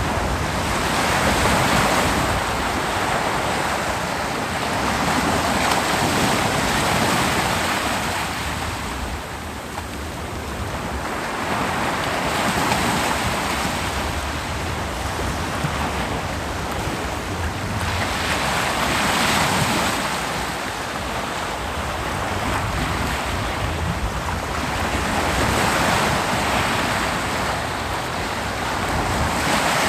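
Ocean waves breaking on a beach: a steady wash of surf that swells and ebbs about every six seconds.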